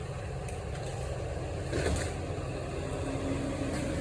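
Engine idling steadily with a low drone, and a brief faint noise about two seconds in.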